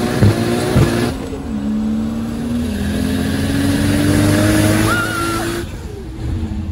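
A drag-racing car's engine runs hard with sharp pops in the first second, then its note climbs steadily as the car accelerates down the strip. It cuts off suddenly about five and a half seconds in, leaving a lower engine rumble.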